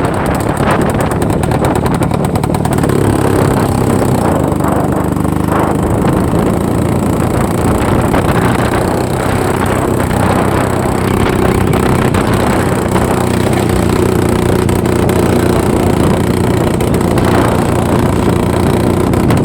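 IZh-49 motorcycle's single-cylinder two-stroke engine running while riding, its pitch rising and falling with the throttle.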